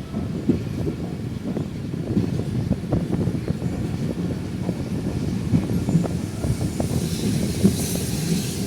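Intercity passenger train running on the track, heard from on board: a steady low rumble with frequent short knocks and rattles, and a hiss that grows near the end.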